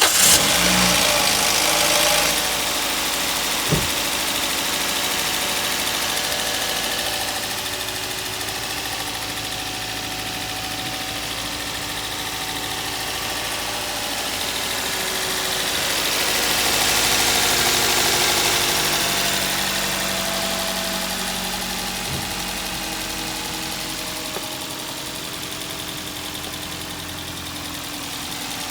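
Toyota GLi's four-cylinder petrol engine running steadily near idle, loudest in its first couple of seconds and swelling briefly about two-thirds of the way through, while its tappet noise is being checked.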